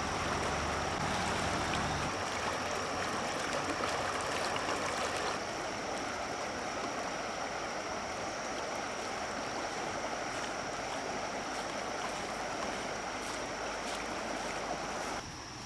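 Flowing water rushing steadily, with a thin steady high tone above it. The sound shifts abruptly about two and five seconds in and drops in level near the end.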